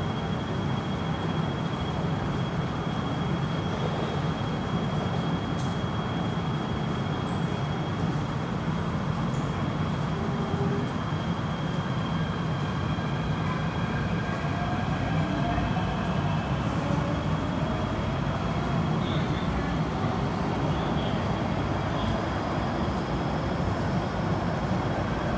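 MTR Tsuen Wan line electric train running on the track, a steady rumble with a thin, high, steady whine over it for most of the time.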